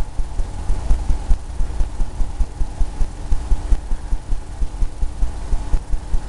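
Oil paintbrush dabbing and scrubbing paint on a canvas on an easel, making a quick, uneven run of low thumps, roughly three or four a second.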